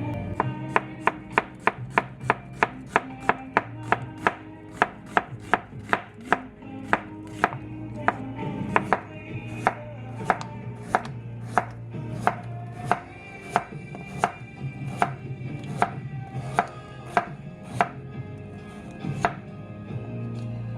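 Knife chopping on a cutting board in quick, even strokes of about three a second, slowing after about six seconds to an unhurried pace of around one and a half a second.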